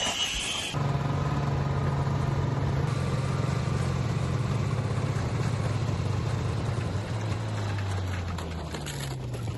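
An engine running steadily, its pitch slowly sinking over the last few seconds.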